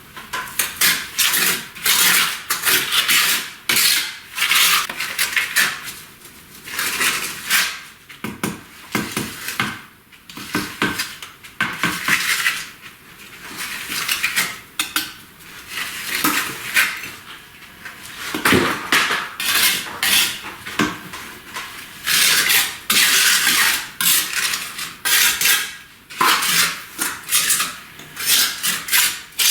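Steel masonry hand tools scraping and clinking against brick and mortar, in short, irregular strokes about one or two a second: bricklaying work on a fireplace.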